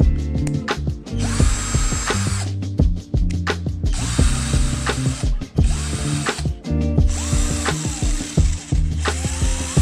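Mitsushi 12 V cordless drill running in repeated trigger pulls: the motor whine rises as it spins up, holds, then winds down, several times, over background music.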